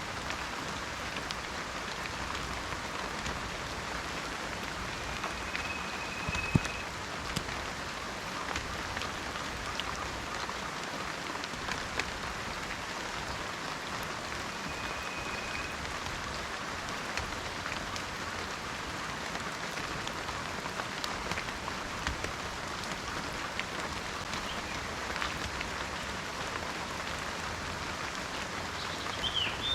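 Steady rain falling in a forest, an even hiss with scattered drops ticking and one louder tap about six seconds in. A few faint, short, high whistle-like notes come through the rain, with a brief chirp near the end.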